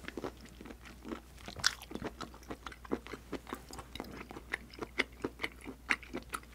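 A person chewing thick pieces of stir-fried octopus close to a clip-on microphone: a string of short, irregular mouth clicks and smacks, a few a second.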